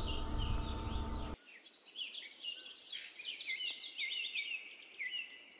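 Faint bird chirping and twittering: many quick high notes, repeated again and again. A low steady hum underneath cuts out about a second in.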